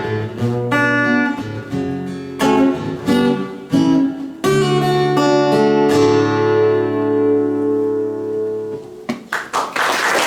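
Acoustic guitar playing the closing chords of a song, ending on one long chord that rings and fades out. Audience applause breaks out near the end.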